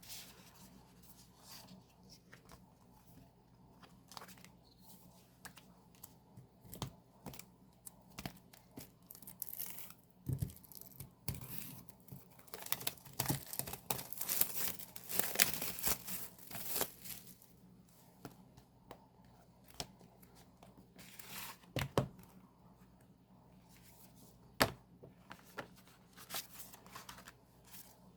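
Album packaging being torn open and crinkled: irregular tearing and rustling of plastic wrap and paper, busiest around the middle, with a few sharp clicks near the end.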